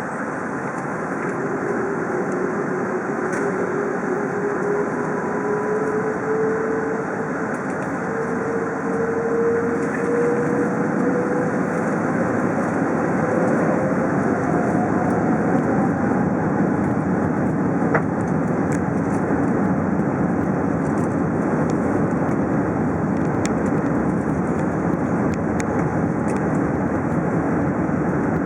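Airbus A380 takeoff roll heard from inside the cabin: its Rolls-Royce Trent 900 engines at takeoff thrust and the rumble of the wheels on the runway, a steady rush that grows louder, with a whine rising in pitch over the first fifteen seconds.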